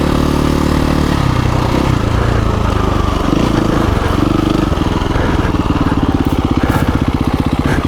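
KTM 350 EXC-F single-cylinder four-stroke dirt bike engine running at low revs, its pitch shifting over the first few seconds, then settling about five seconds in into a slow, even putt near idle.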